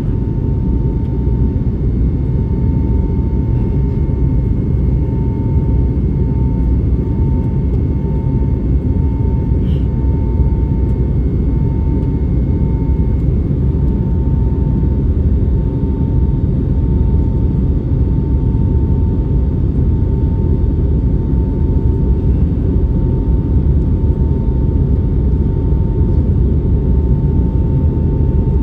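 Steady cabin noise inside an Airbus A321neo airliner: a loud, even, deep rushing hum with a thin steady whine above it.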